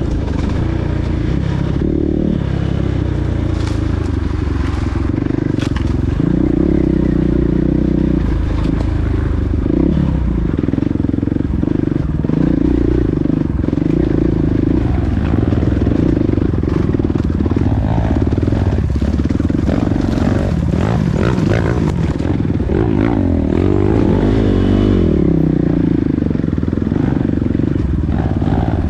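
Motocross bike engines running and revving hard, their pitch rising and falling with the throttle.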